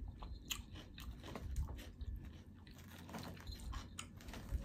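Close-miked chewing of a salad with crunchy Parmesan crisps, in soft crackles and crunches, with light clicks of a metal fork poking into a plastic tub.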